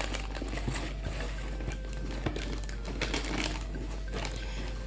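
A LEGO set's cardboard box being opened by hand, with rustling and scattered light clicks and taps as the box and its contents are handled.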